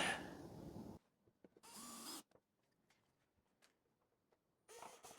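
A single sharp knock with a short ring-out, followed by near silence with a few faint ticks.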